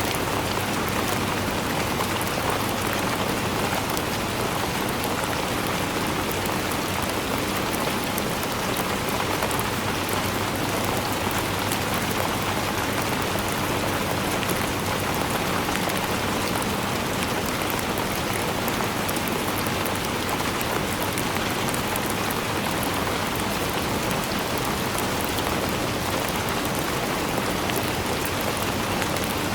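Steady rainfall: a constant hiss of rain with fine drops pattering on a surface, even in level throughout.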